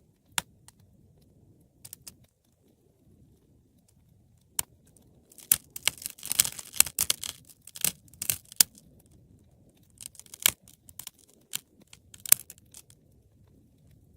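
Wood fire crackling: sharp pops and snaps over a faint low rumble of burning. A dense flurry of crackles comes about halfway through, with scattered single pops before and after.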